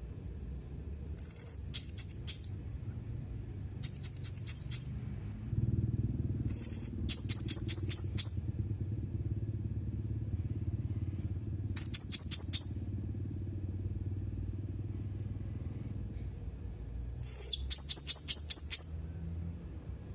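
Blue-crowned hanging parrot (serindit) calling in bursts of rapid, very high-pitched chirps, each a quick run of several notes lasting about a second. There are five bursts a few seconds apart, over a low steady hum.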